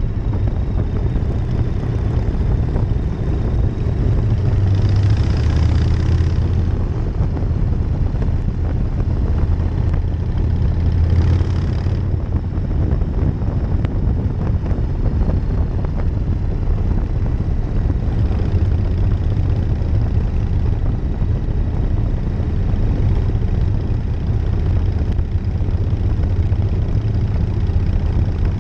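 1999 Harley-Davidson Night Train's V-twin engine running steadily while riding, with wind noise on the microphone. Two brief hissing swells come about five and eleven seconds in.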